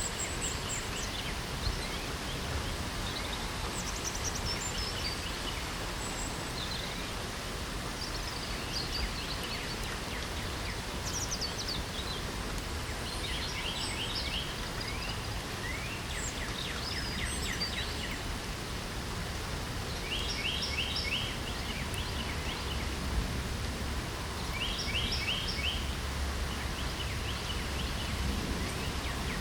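Steady patter of light rain with birds singing over it: scattered whistled sweeps and short trilled phrases, several repeated in quick bursts.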